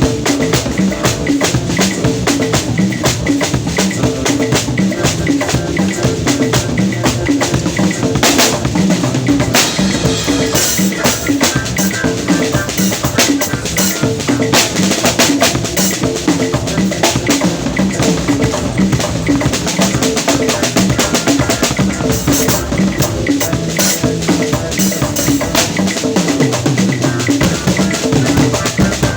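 Drum kit played continuously, with snare and bass drum in a busy rhythm and low pitched notes moving underneath.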